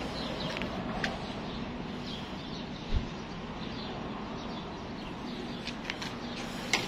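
Small birds chirping, many short high calls scattered over steady outdoor background noise, with a brief low bump about three seconds in.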